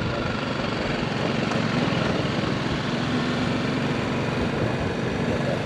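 Motorcycle running steadily on the road, its engine drone mixed with the rush of wind over the microphone.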